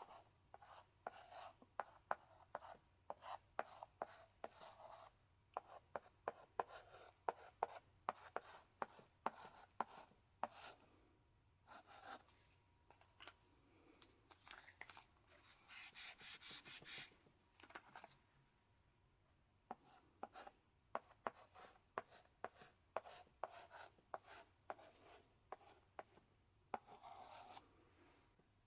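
Chalk held in a chalk holder writing on a blackboard: quick irregular taps and short scratches of each stroke, with a longer scraping stroke about halfway through.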